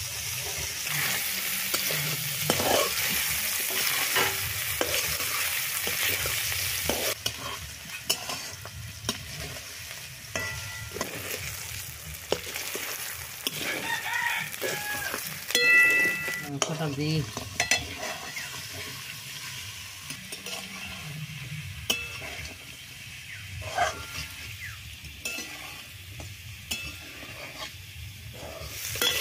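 Onions, ginger and green chillies frying in hot oil in a large metal wok (kadai), sizzling strongly for the first several seconds and then more softly, while a metal spatula scrapes and knocks against the pan as they are stirred. A rooster crows about halfway through.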